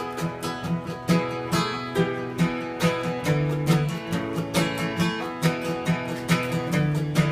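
Acoustic guitar playing an instrumental break in a slow country-folk song, steadily picked and strummed at about two strokes a second, with no singing.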